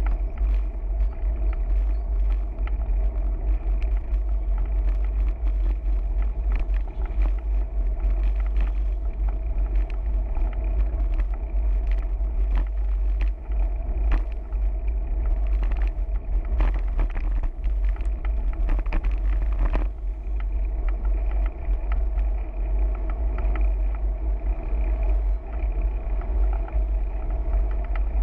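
Steady low rumble of wind buffeting a camera microphone carried along on a moving bicycle, with road noise underneath and a few scattered clicks.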